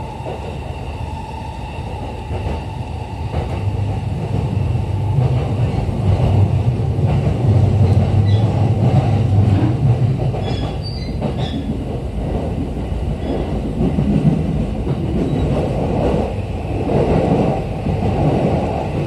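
Running noise inside a JR East E231 series commuter train car: a steady rumble of wheels on rail that grows louder about halfway through. A brief high-pitched wheel squeal comes about ten seconds in.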